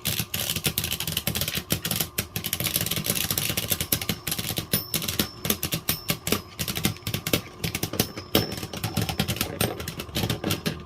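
Beyblade Burst tops, Prominence Valkyrie and Roar Bahamut, spinning and repeatedly clashing in a plastic stadium: a dense, rapid clicking and clattering over a steady spinning hum.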